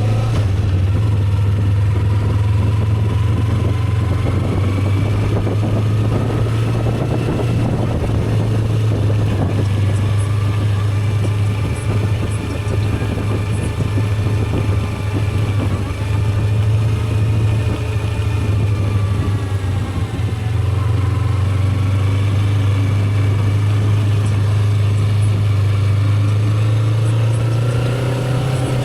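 Motorcycle engine running under way, a steady low hum whose higher tones slowly rise and fall as the speed changes, with rushing wind noise.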